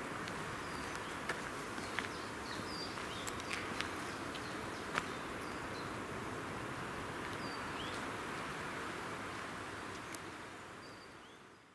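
Outdoor park ambience: a steady hiss with scattered short bird chirps and a few brief ticks, fading out near the end.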